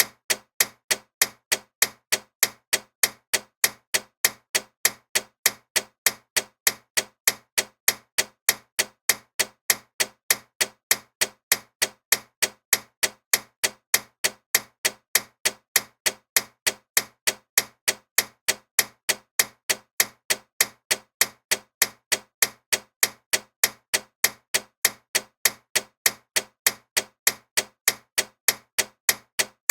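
Loud ticking clock: sharp, even ticks, a few each second, in a steady unbroken rhythm.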